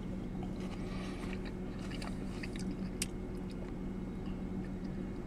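A person chewing a mouthful of cherry tomato and salad, with scattered small wet clicks, over a steady low hum.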